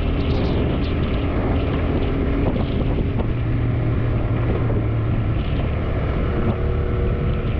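A TVS Raider 125's single-cylinder engine running at a steady road speed, with wind buffeting the camera's microphone.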